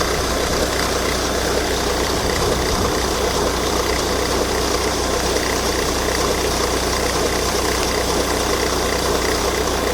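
Volvo V70 D5 five-cylinder turbodiesel idling steadily, with a strange resonating noise from the auxiliary belt drive.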